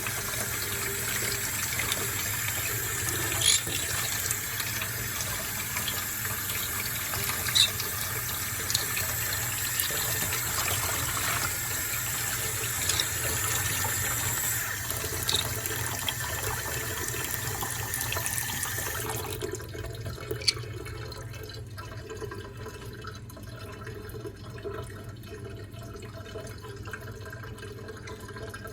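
Water tap running into a sink, filling the basin with a steady rush, then turned off about two-thirds of the way through, after which it is much quieter. A few short, sharp high sounds stand out here and there.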